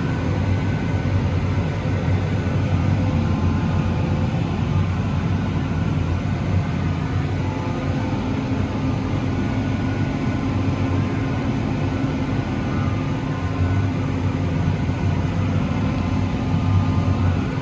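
Vehicle engine running steadily, a constant low drone with an even hum.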